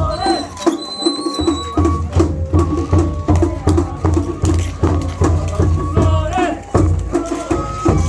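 Japanese festival hayashi music: taiko drums beating a steady, quick rhythm under a high flute melody.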